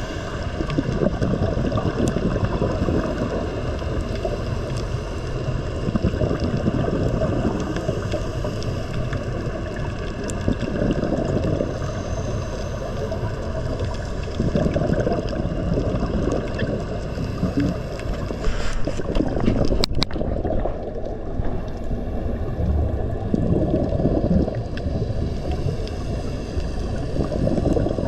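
Steady, muffled rumble of water noise, with a few sharp clicks about two thirds of the way through.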